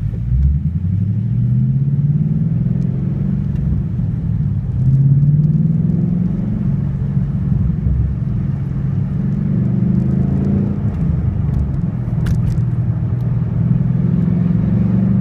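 2012 Mustang GT's 5.0 V8 through an MBRP Race Series cat-back exhaust, heard from inside the car, pulling through the gears. The deep exhaust note rises in pitch, drops back at each shift and climbs again several times.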